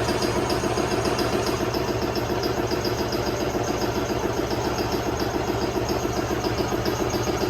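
An engine or motor running steadily with a fast, even pulse.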